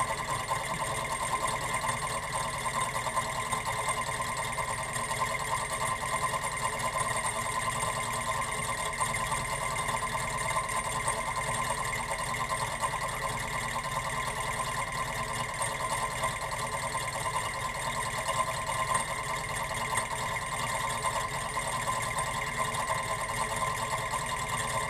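Model gamma-type Stirling engine running steadily at about 590 RPM, a fast, even mechanical rhythm that holds constant throughout.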